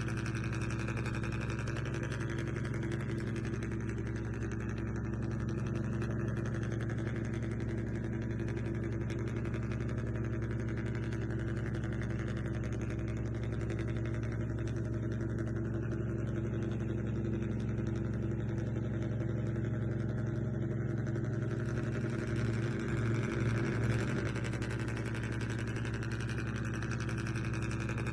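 Remote-control vehicle running with a steady, even mechanical hum, wavering briefly near the end.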